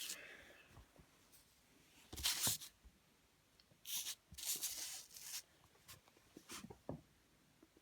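Handling of OO gauge model railway track pieces: a few short scraping, rustling bursts as sections are moved, then some light clicks.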